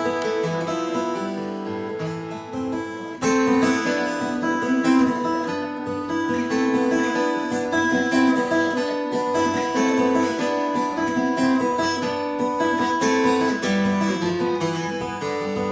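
Acoustic guitar playing an instrumental passage of picked notes over a moving bass line, getting louder and fuller about three seconds in.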